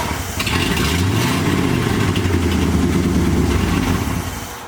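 The carbureted 318 V8 of a 1973 Dodge D100 pickup runs steadily, with a brief rise in engine pitch about a second in, then fades near the end. The truck has just been revived after long sitting.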